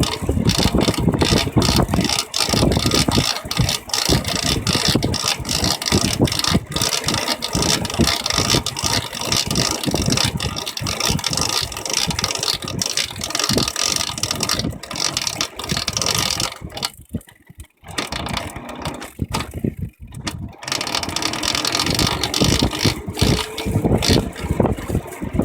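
Bafang BBS02 mid-drive e-bike motor driving a Shimano Nexus 8 internal gear hub under load while pedaled, running with a weird irregular clicking noise on top of its drive noise. The sound briefly cuts out twice about two-thirds of the way through.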